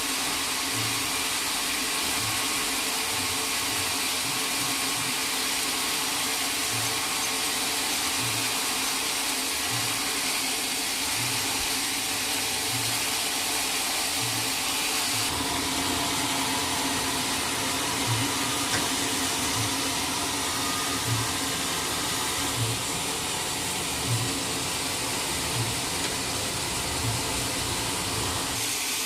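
Sawmill machinery running steadily, with a low thump recurring about every second or so; the sound shifts slightly about halfway through.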